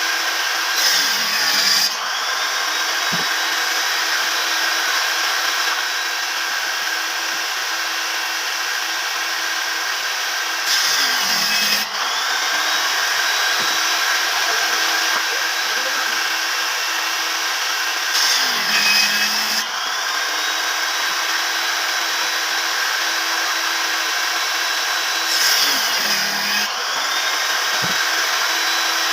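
Electric woodworking power tool running steadily with a constant motor hum and whine. Four times, at even intervals of about 7 to 8 seconds, it cuts into wood for about a second: the motor pitch sags under the load and the sound gets louder, then it picks back up to speed.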